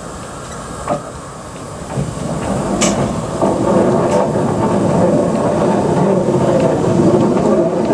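Narrow-gauge steam train running on the line: a steady rumble of the train on the rails that grows louder over the first few seconds, then holds, with a few sharp clicks.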